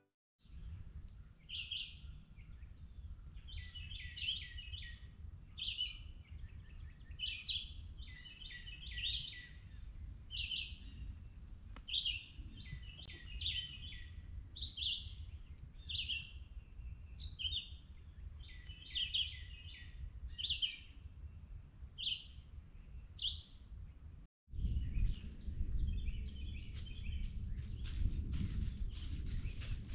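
Songbirds singing in woodland, a run of short chirpy phrases coming about once a second. About 24 seconds in, after a brief dropout, a low rumble rises under fainter birdsong.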